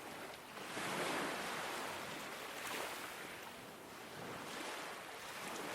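Ocean waves washing onto a shore, each wave swelling and fading, with swells about a second in and twice more.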